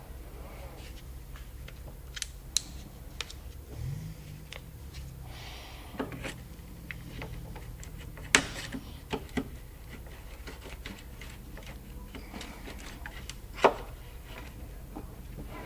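Scattered sharp clicks and taps of plastic trim pieces, rivets and hand tools being handled, loudest twice in the second half, over a low steady hum.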